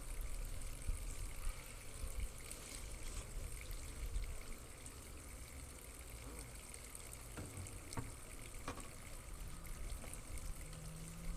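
Faint steady outdoor noise with a low wind rumble on the microphone, strongest at the start, and a few light clicks about two-thirds of the way through.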